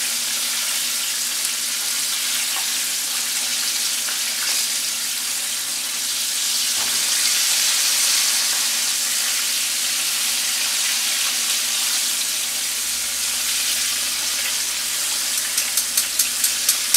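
Flour-coated rabbit pieces shallow-frying in hot grease in a skillet, with a steady sizzle. Near the end comes a quick run of light clicks.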